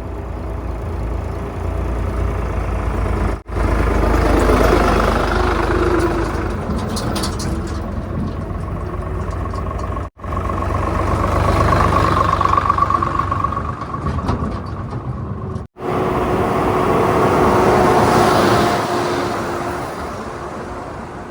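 Heavy diesel engines of construction machinery and trucks running and revving under load, with a faint whine in the middle. The sound breaks off and restarts suddenly three times.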